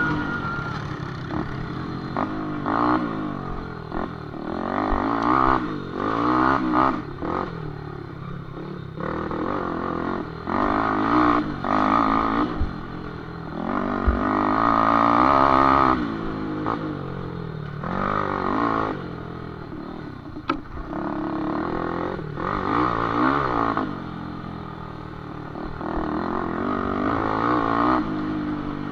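Small cup-cross motorcycle engines revving, their pitch rising and falling again and again as the throttle is opened and closed.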